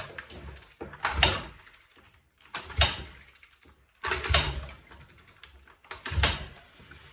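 Kawasaki KLX dirt bike being kicked over again and again, about four strokes a second and a half apart, each a thump and a brief turnover that dies without the engine firing: a cold engine with no choke that will not start.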